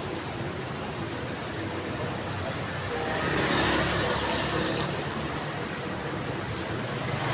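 Heavy rain falling steadily, with a low rumble that swells and fades between about three and five seconds in.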